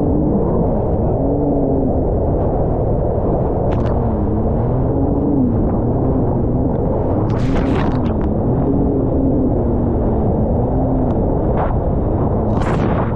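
Jet ski engine running under way, its pitch rising and falling as the throttle changes, over a heavy rumble of wind on the head-mounted microphone. A couple of short hisses stand out about halfway through and near the end.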